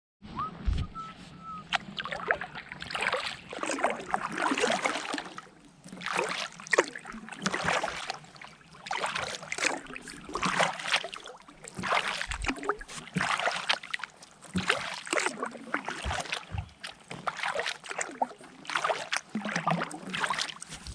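Paddle strokes through water: a rhythmic swishing and dripping that swells and fades about every one and a half to two seconds, with small knocks.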